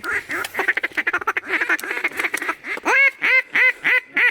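Mallard duck call blown by a hunter: a fast, rattling feeding chatter, then from about three seconds in a descending series of six or seven loud hen quacks.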